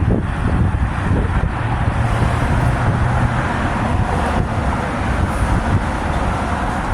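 Steady road traffic noise, a continuous hiss with a low rumble underneath.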